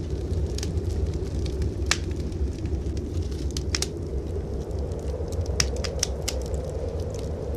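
Wood fire crackling in a fireplace, with scattered sharp pops at irregular intervals, over a steady low rumble of blizzard wind.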